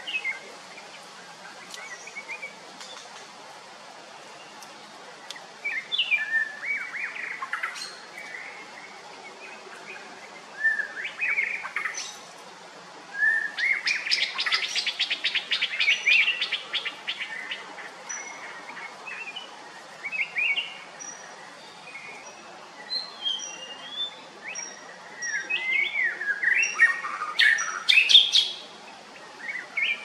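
Songbirds chirping and calling in irregular bursts. About halfway through comes a rapid run of ticking notes, and near the end there are repeated thin, high, short notes.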